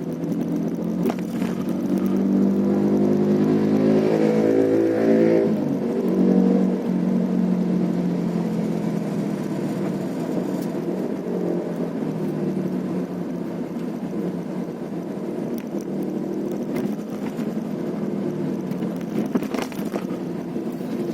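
A vehicle engine picks up speed a couple of seconds in, its pitch rising, then runs steadily under road noise while driving. A few sharp knocks come near the end.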